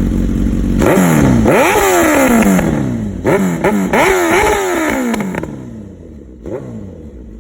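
Suzuki GSX-R1000 inline-four sportbike engine through an aftermarket M4 exhaust, idling, then revved hard: one long rev and a quick string of throttle blips that each spike and fall away. It settles back to a quieter idle, with one last short blip near the end.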